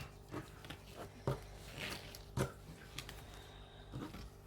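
A few soft, short taps and rustles of a cross-stitch kit's packaging, threads and needles being handled, over a faint steady low hum.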